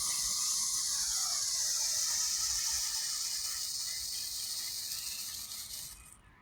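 Nico Irrlichter category F1 firework burning with a steady, high hiss that slowly weakens and cuts out about six seconds in.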